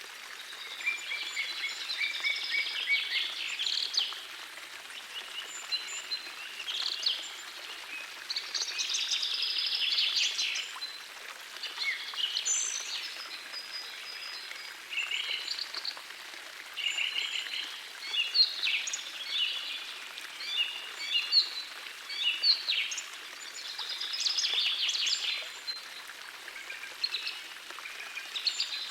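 Songbirds singing in short chirping and trilling phrases, one after another every few seconds, over the steady rush of a gentle forest stream.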